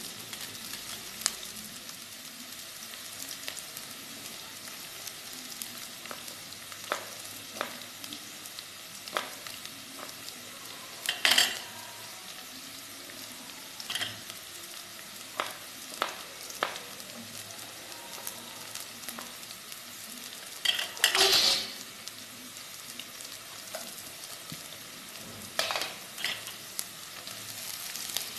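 Chopped onion and garlic sautéing in hot oil in a wok: a steady sizzle with scattered pops and crackles, a few louder spatters about 11 and 21 seconds in. A spatula starts stirring the pan near the end.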